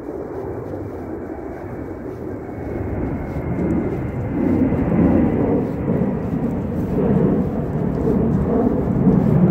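Aircraft passing low overhead, a deep rumble that grows steadily louder, with a faint high whine above it.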